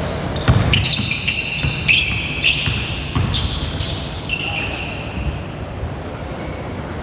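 A basketball being dribbled on a gym court, dull thumps every second or so, with many short high sneaker squeaks from players moving.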